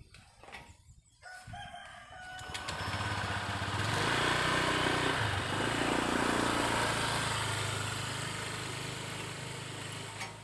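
A motor vehicle passes close by: its engine hum and road noise swell over a couple of seconds, peak, then slowly fade away.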